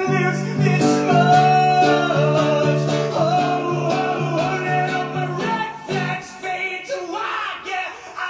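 Live song: a male singer's voice over steadily repeated accompanying chords. The low chords drop out about five and a half seconds in, leaving the voice and lighter accompaniment.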